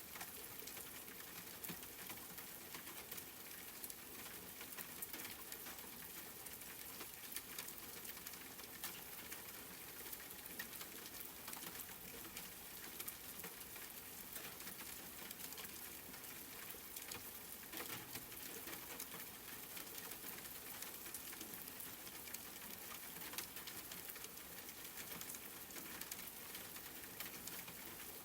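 Steady rain pattering, a constant hiss made of many small drop ticks, with no thunder or other events.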